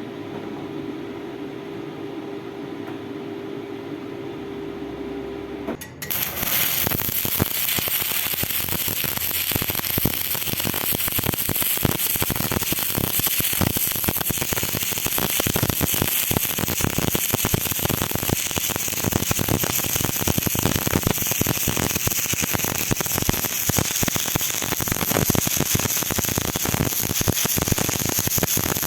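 A steady hum, then about six seconds in an electric arc strikes and crackles and sputters steadily: stick (arc) welding, laying a horizontal fillet weld.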